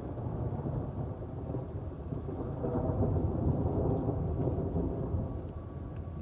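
Rolling thunder in a thunderstorm, a low rumble that builds about two seconds in, peaks, then fades, with rain falling throughout.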